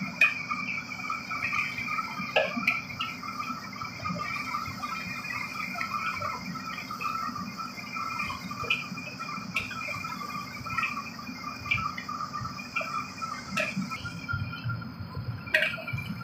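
Food sizzling as it is stir-fried in a wok over a gas burner, a steady crackling sizzle. Every few seconds the metal spatula and ladle knock or scrape against the wok.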